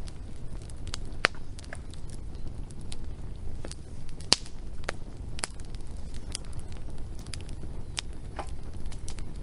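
Wood fire crackling: irregular sharp pops and snaps, a few louder ones about a second in and just past four seconds, over a steady low rumble.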